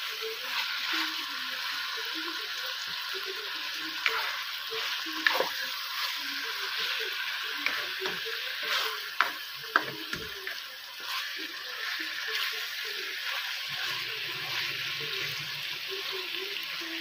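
Chicken pieces and sliced chorizo sizzling in oil in a nonstick pan, stirred with a spatula that knocks and scrapes against the pan several times.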